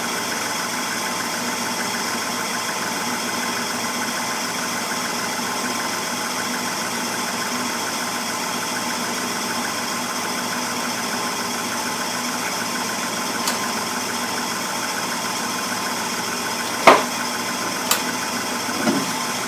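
Gas furnace with an intermittent-pilot smart valve running through its startup: a steady mechanical hum as the pilot burns. About 17 seconds in, a sharp, loud click, the valve's second click that brings on the main burners, followed by a smaller click a second later.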